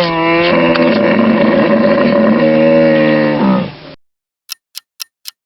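Hippopotamus giving one long, low, pitched call that dips slightly at the start, holds steady for about three and a half seconds and then stops. Near the end a clock-like ticking starts, about four ticks a second.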